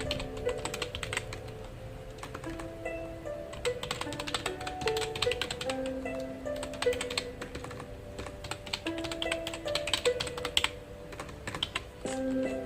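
Typing on a computer keyboard: quick runs of key clicks in irregular bursts with short pauses. Soft background music with slow held notes plays underneath.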